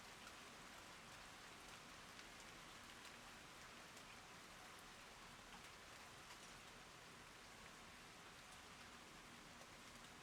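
Faint steady rain falling, with scattered single drops ticking through the hiss.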